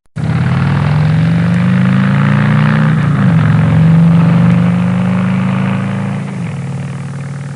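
Motorcycle engine running steadily, starting abruptly. Its pitch dips briefly about three seconds in and again a little after six seconds, and it slowly gets quieter toward the end.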